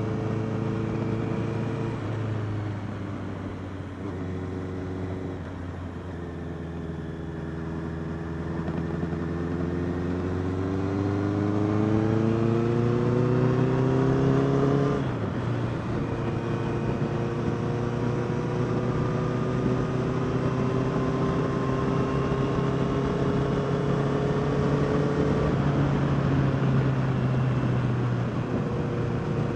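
Honda CBR650R's inline-four engine heard from the bike while riding. It eases off briefly, then climbs steadily in pitch as it accelerates. About halfway the pitch drops suddenly, as at an upshift, and the engine then settles into steady cruising with a gently rising note.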